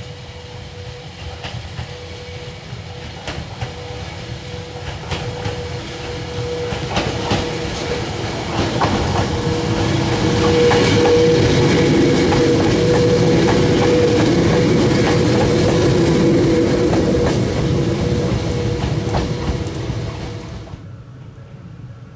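Hakone Tozan Railway 2000-series electric train running past on a curve, with a steady hum and wheels clicking over the rail joints. It grows louder as it approaches, is loudest as the cars pass close by, then fades. The sound cuts off shortly before the end.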